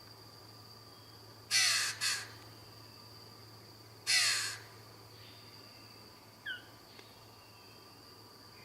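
A bird of paradise giving harsh, crow-like calls: two in quick succession, then a single one a few seconds later, followed by a couple of faint short chirps.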